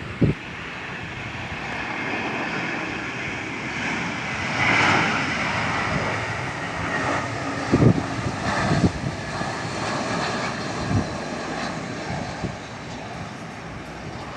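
An airliner coming in to land passes by, its engine noise swelling to a peak about five seconds in and then easing off. A few short low thumps are heard along with it.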